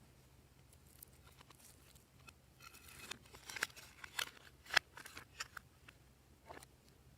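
Glossy slime being worked by hand, giving scattered sticky clicks and small pops, strongest in the middle and loudest about five seconds in.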